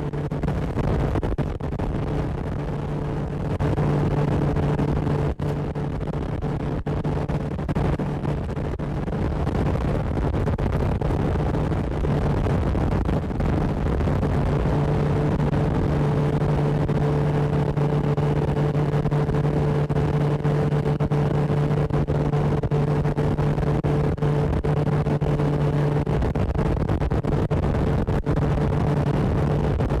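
Motorboat engine running at a steady cruising speed, its even drone mixed with rushing wind and water noise. The engine gets a little louder a few seconds in, then holds steady.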